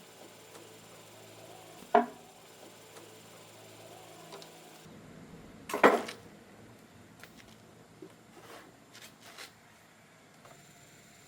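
Tools or engine parts being handled on a workbench: a sharp knock about two seconds in, a louder clunk near the middle, then a few light taps.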